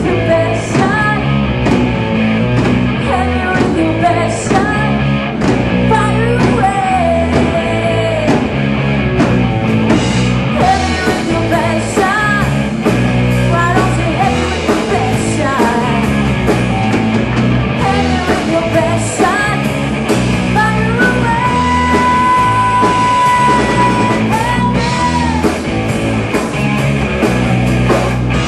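Live rock band playing a song with sung vocals, electric guitar and drums at a loud, steady level.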